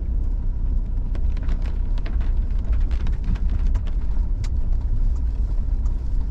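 Car driving, heard from inside the cabin: a steady low road and engine rumble, with scattered sharp ticks over it.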